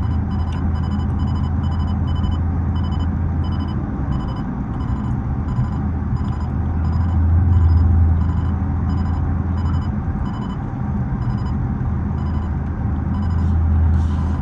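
Muffler-deleted 6.4-litre HEMI V8 of a Dodge Charger SRT 392 droning low while driving, heard in the cabin. It swells as the car accelerates about halfway through and again near the end. A fast, regular high ticking sits over it.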